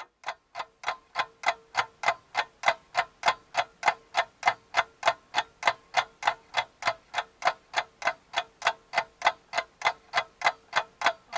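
Clock ticking sound effect: sharp, even ticks at about three to four a second, with a faint steady hum beneath.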